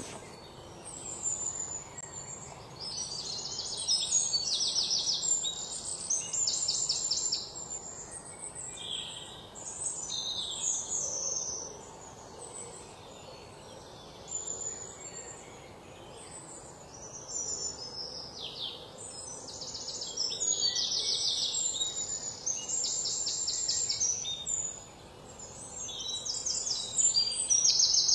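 Birds singing: high, rapid trilled phrases and short chirps that repeat with brief pauses, over faint background noise.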